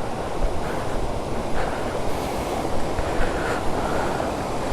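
Steady rushing of water from a nearby waterfall, an even roar with no breaks.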